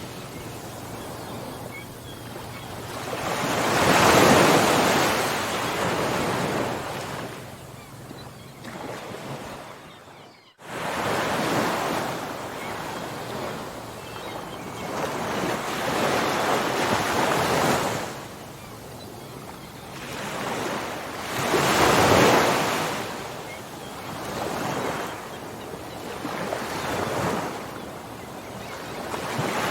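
Ocean surf: waves breaking and washing in, the rushing sound swelling and ebbing in slow surges every several seconds, two of them loudest. About ten seconds in the sound cuts out for an instant, then resumes.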